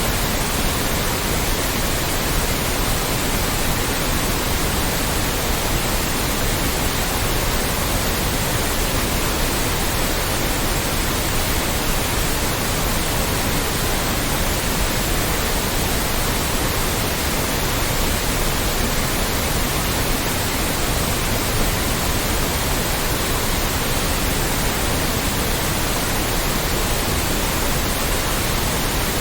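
Loud, steady white noise: an even, unchanging hiss across the whole range of pitch.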